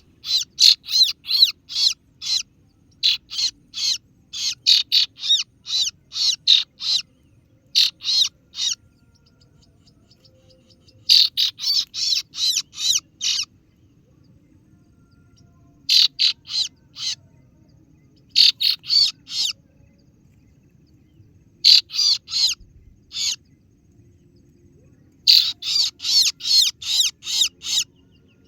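Kaso-kaso bird (singo barong) giving its sharp, high 'ciet ciet' chirps, about three a second, in runs of a few seconds with pauses between. This is the lure call used to draw in a rival bird.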